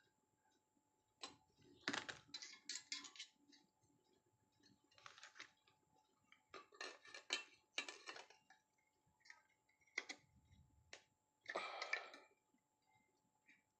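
Faint scattered clicks and rattles of small hard parts being handled, in short clusters of a few clicks each, typical of fitting a clamp-on freon piercing valve onto a refrigerator line.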